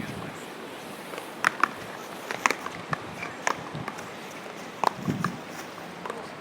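Irregular sharp knocks and clacks, several with a brief ringing tone, over a steady background hiss.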